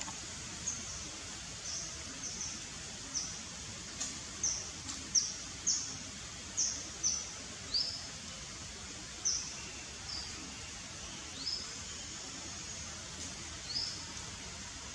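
A bird giving short, high chirps, each sliding quickly downward, about fifteen at uneven intervals, over a steady background hiss.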